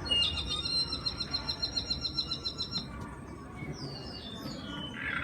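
Recorded New Zealand bird song played back: a fast, even run of high chirping notes, about six a second, for nearly three seconds, then a few falling whistled notes.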